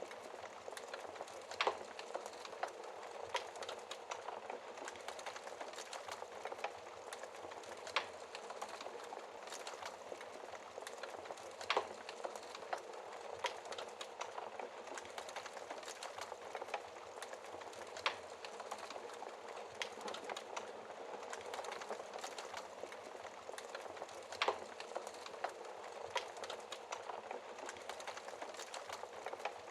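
Fire burning behind a glass shield: a steady soft hiss with scattered sharp crackles and a louder pop every few seconds.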